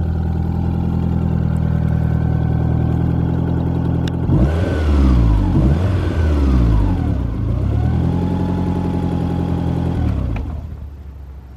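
Lancia Delta Integrale 16V's turbocharged 2.0-litre four-cylinder engine idling, then revved up and down twice, held at steady higher revs, and falling away near the end.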